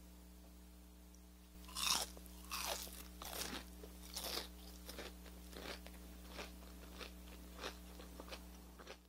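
Someone biting into a crispy Cheetos-crusted fried chicken tender. The loudest crunch comes about two seconds in, then a steady run of chewing crunches, fading toward the end.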